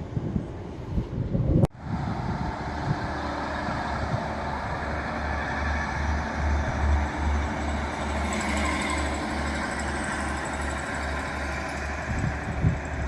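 Diesel multiple-unit train's underfloor engine running with a steady, evenly pulsing low throb, with a higher whine swelling briefly around the middle. It follows a couple of seconds of wind buffeting the microphone that cuts off suddenly.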